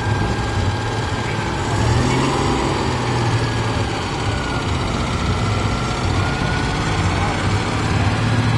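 Citroën 2CV's air-cooled flat-twin engine running at low revs as the car creeps past, a steady low engine note, with voices in the background.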